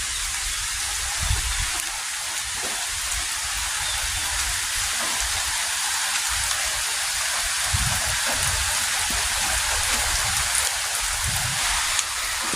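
Heavy rain falling steadily, with irregular low rumbles of wind gusting on the microphone.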